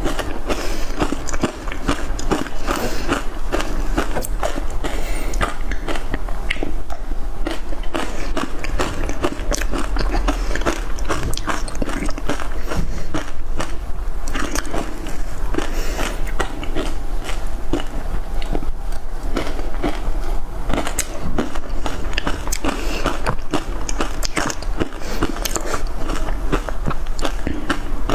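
Close-miked crunching and chewing of matcha-powdered ice cubes, a dense run of sharp cracks with no break, over a steady low hum.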